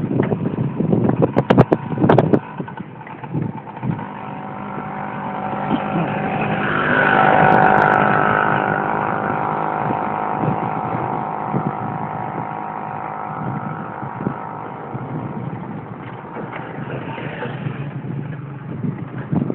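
A motor vehicle's engine approaches and passes, loudest about seven or eight seconds in, its pitch dropping as it goes by and then fading away. A few sharp knocks come near the start.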